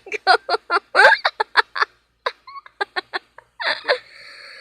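A high human voice making rapid choppy gobbling sounds, about five a second, that grow sparse about two seconds in and trail off near the end.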